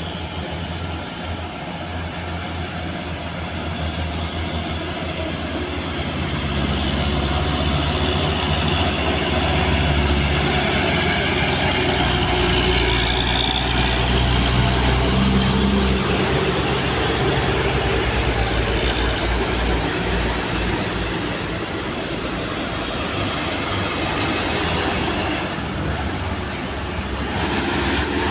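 A heavy vehicle's engine running with a low rumble, growing louder over the first ten seconds.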